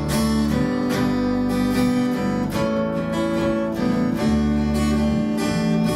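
Worship band's instrumental break: acoustic guitar strumming chords over held low bass notes.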